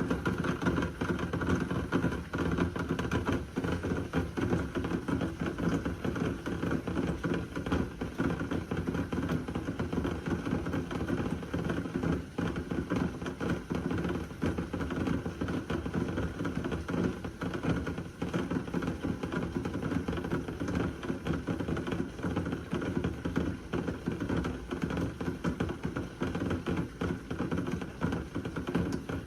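Heavy thunderstorm rain falling steadily, a dense rapid patter of drops striking a hard surface, with no thunderclap.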